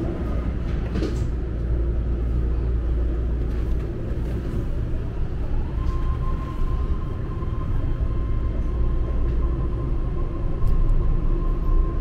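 Legacy-fleet BART train pulling out of a station and getting under way, heard from inside the passenger car: a steady low rumble, with a thin steady whine from the running gear joining about six seconds in.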